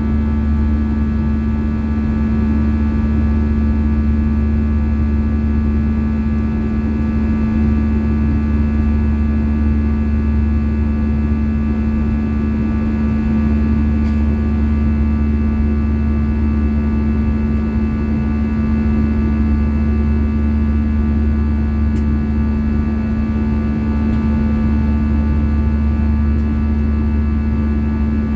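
Steady cabin noise inside an Airbus A320-214 whose CFM56 engines are running at a constant setting: a deep rumble under a steady droning hum with several high whining tones held on top, unchanging throughout.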